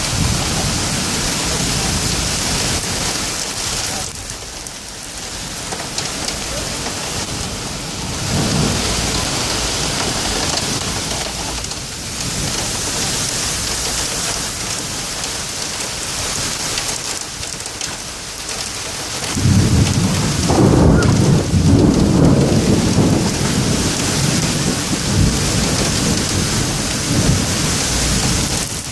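Heavy rain pouring steadily, with rolling thunder: a low rumble about a third of the way in, then a louder, longer peal of thunder from about two-thirds of the way through.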